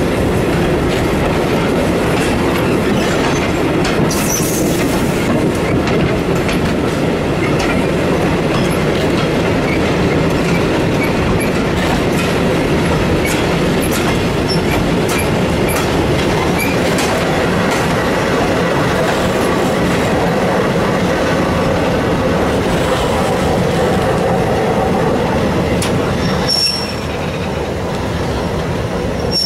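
Steam train's vintage passenger carriage running along the track, heard from its open window: a steady rolling noise of wheels on rail, with irregular clicks over rail joints.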